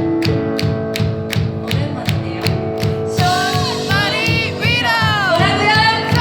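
A live band playing: a steady drum beat of about four hits a second under held chords, with a singer's voice coming in about three seconds in, sliding between notes.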